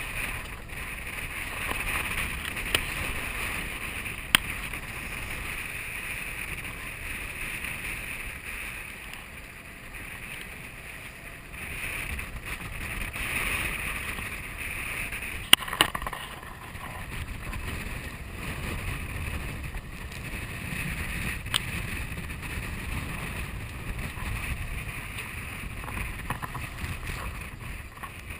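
Wind gusting over the microphone and water rushing along the hull of a sailboat under way, rising and falling in gusts, with a few sharp knocks, the loudest about halfway through.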